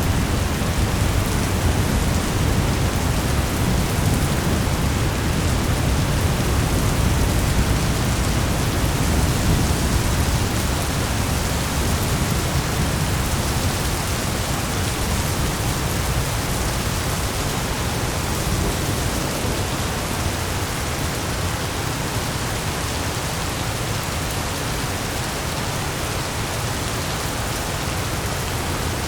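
Thunderstorm: steady rain hiss with a low rolling rumble of thunder underneath, the rumble easing off about halfway through.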